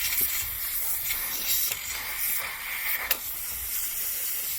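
Can of compressed air duster spraying in a long hiss that swells and dips, with a few sharp spits, blowing dust out of a PlayStation 4's heatsink.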